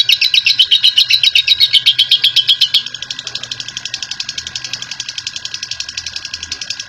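Lovebird's long 'ngekek' chatter: a fast, unbroken trill of high notes, about a dozen a second. About three seconds in it drops to a quieter, duller level and carries on at the same pace.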